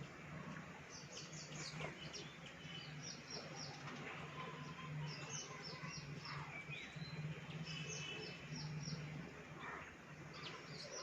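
Baya weavers chirping: short, high chirps in quick runs of four or five, repeated over and over, over a low steady hum.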